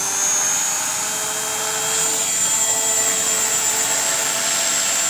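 Radio-controlled model helicopter running in flight, a steady whine from its motor and rotors, the pitch rising a little over the first couple of seconds and then holding.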